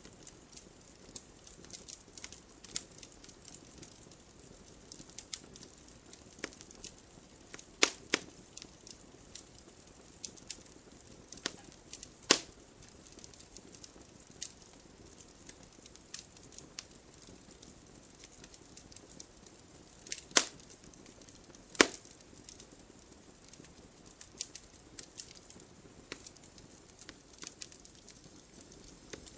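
Wood fire crackling: irregular small snaps and ticks over a faint hiss, with about four louder, sharper pops spread through it.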